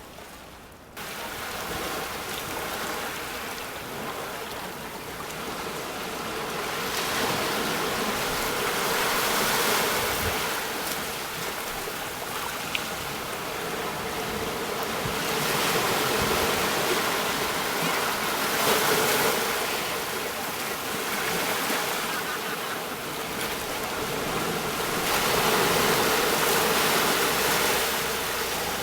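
Sea waves breaking on a shore: a continuous wash of surf that swells and eases with each wave, cutting in abruptly about a second in.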